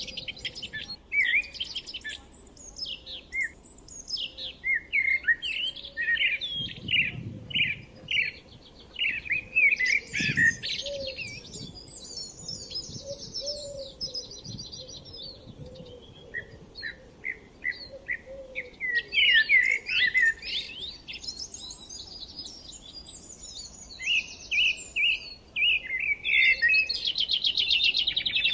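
Several forest songbirds chirping and calling over one another, with short repeated chirps and quick rattling trills.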